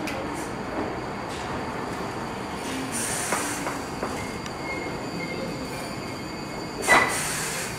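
Iyotetsu 3000 series electric train rolling slowly into the platform and braking to a stop, with thin wheel and brake squeals over the running noise. A sudden short loud burst comes near the end.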